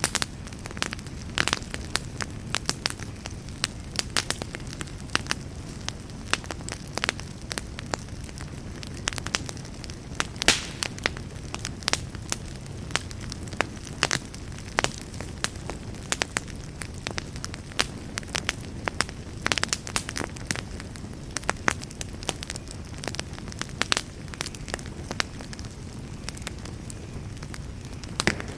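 Wood campfire burning, a steady low rumble of flames with frequent irregular crackles and pops.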